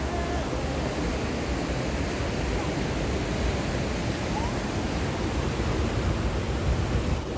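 Steady rushing noise of sea surf and wind, with a strong low rumble.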